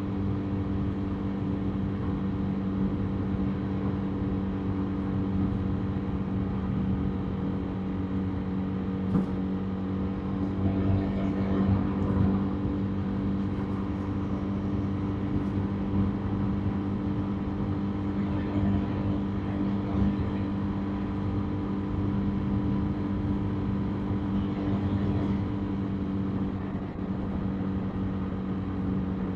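Motorbike engine running at a steady, even pitch while riding along the road, over road noise, with a few brief louder moments.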